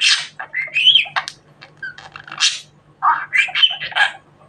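Budgerigar chattering: irregular runs of short scratchy calls and chirps with brief pauses between them.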